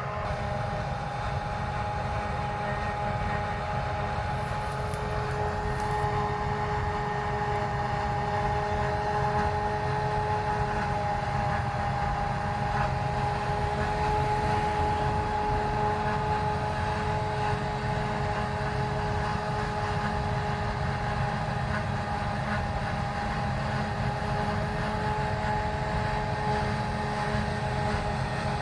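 Large harvest machinery running steadily: a low diesel rumble with a constant high whine over it.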